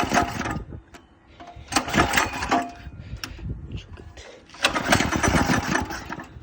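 Small go-kart engine, fitted with a new 30 mm carburetor, being pull-started three times. Each pull gives about a second of sputtering, and the engine dies away without catching.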